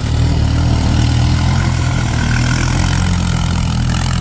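A four-wheeler (ATV) engine idling steadily at low revs close by, a constant low hum.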